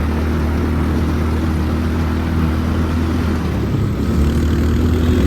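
Quad bike engine running under way, a steady low drone over a rush of noise; the engine note shifts about three and a half seconds in.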